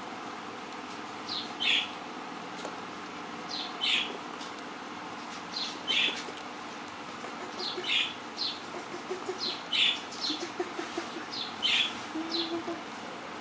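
A bird chirping, a short falling two-note call repeated about every two seconds.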